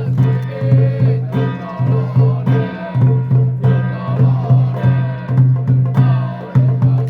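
Traditional folk ritual music: a fast, even drum beat of about three strokes a second with clacking percussion, and a wavering melodic line over it.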